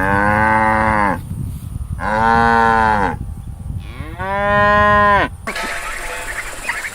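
Cow mooing three times, each call about a second long and dropping in pitch at its end. After the third moo the sound changes to quieter background with short chirping calls.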